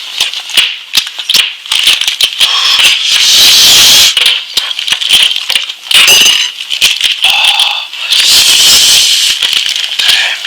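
Close-miked eating sounds of someone chewing lamb: wet smacking and crunching with many sharp clicks, thickening into long crackly stretches about three seconds in and again near the end.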